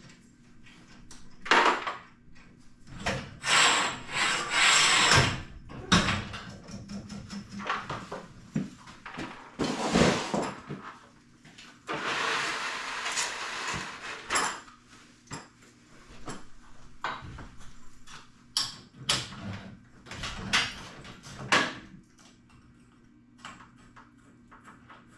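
Hand tools and garage door hardware being worked: an irregular string of knocks, clicks and scrapes. Longer rasping stretches come about four seconds in, around ten seconds in, and for a couple of seconds past the middle, and it quietens near the end.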